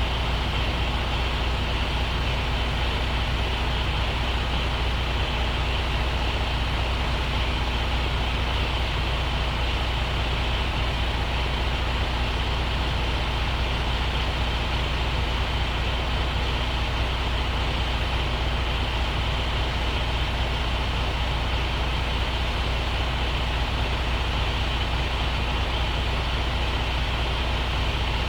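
A truck's diesel engine running steadily, a constant low hum with no change in speed or load.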